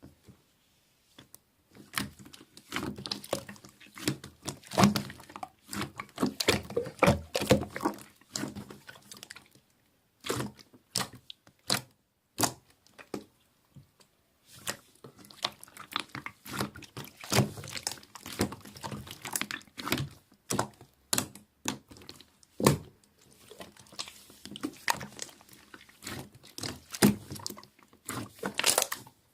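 Slime being squeezed and pressed by hand: wet squishing with many sharp pops and clicks of trapped air, in stretches broken by short pauses.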